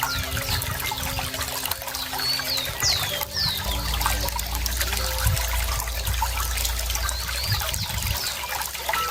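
Running water trickling steadily, while a bird gives short falling chirps several times. A low rumble swells in the middle and drops away about eight seconds in.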